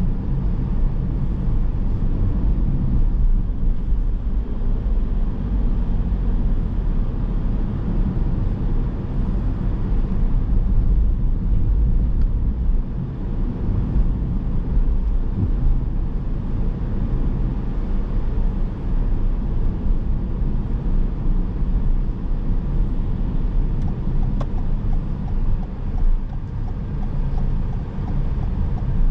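A car driving, its steady low rumble of road and engine noise.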